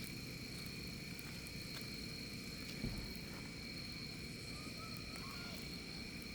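Outdoor ambience: insects drone in two steady high tones over a low rumble, with one short knock about three seconds in and a few faint bird chirps near the end.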